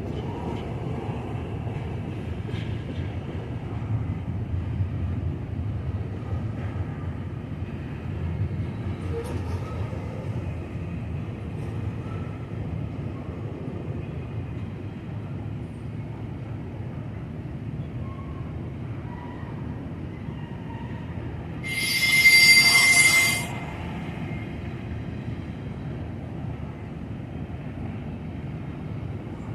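Freight train cars rolling past with a steady low rumble. About three-quarters through comes a loud, high-pitched squeal lasting about a second and a half, typical of wheel flanges squealing against the rail.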